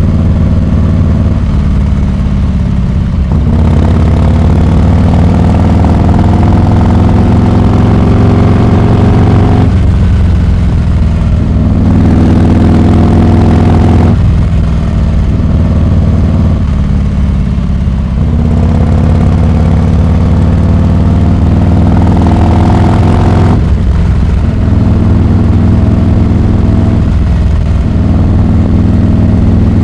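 Harley-Davidson Heritage Classic 114's Milwaukee-Eight 114 V-twin running loud through a Rinehart exhaust, its note rising and dropping back several times as the throttle is opened and shut.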